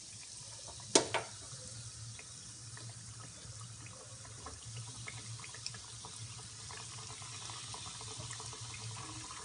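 Breaded paneer pieces deep-frying in hot oil in a kadhai: a steady sizzle with small crackles that grows slightly as the oil froths up, after a sharp knock about a second in.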